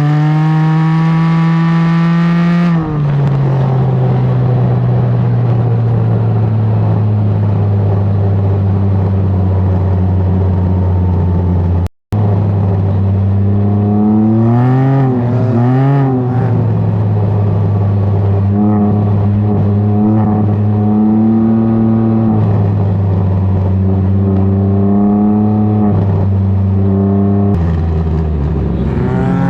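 Can-Am Ryker engine through a BKD Insomnia series aftermarket exhaust, pulling up through the revs at the start, then dropping to a steady cruise. A little past halfway the revs rise and fall a few times before it settles again, with a brief dropout in the sound a little before halfway.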